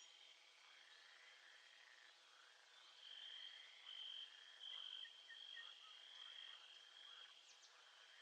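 Faint nature ambience of frogs and insects calling: a high, steady trilling tone that swells about three seconds in and eases off near the end, with scattered short chirps beneath it.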